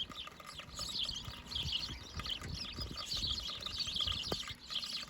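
A flock of small birds chirping continuously, many calls overlapping, with irregular low thumps and rumble underneath.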